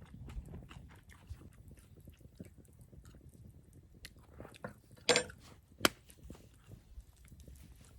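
Eating sounds: soft chewing and small clicks, with two sharp clicks about five and six seconds in.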